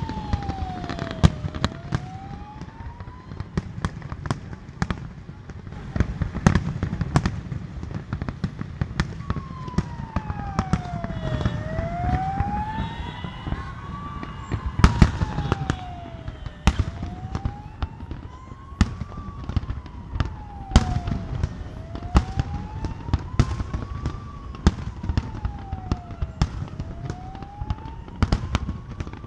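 Aerial fireworks bursting in a rapid, irregular series of sharp bangs and crackles. Under them a siren wails slowly up and down, one rise and fall about every five seconds; it fades for a few seconds early on.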